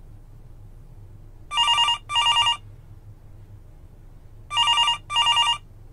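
Telephone ringing in a double-ring pattern: two pairs of short rings, the second pair about three seconds after the first.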